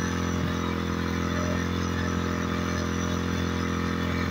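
Honda CD 70's small single-cylinder four-stroke engine running steadily through an exhaust fitted with a homemade flame kit.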